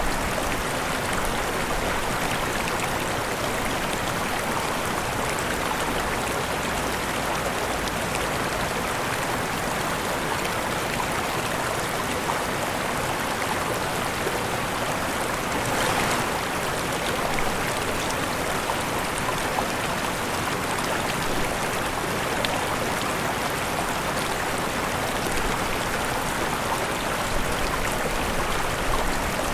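Waterfall: a steady, even rush of falling water, with one brief louder splash about halfway through.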